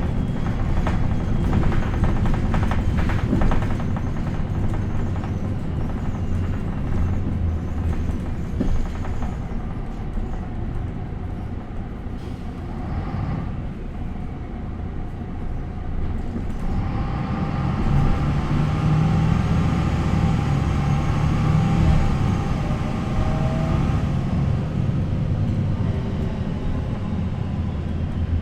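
MAN NL 263 city bus's six-cylinder D28 diesel engine running through its ZF Ecomat automatic gearbox. The engine note eases off around the middle and grows louder again about two-thirds of the way through, as the engine speed picks up.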